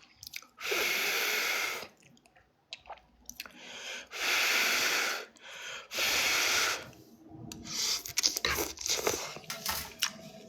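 Three long breaths blown out onto hot noodles, each about a second long, followed by wet mouth sounds of eating noodles: chewing and small slurping clicks.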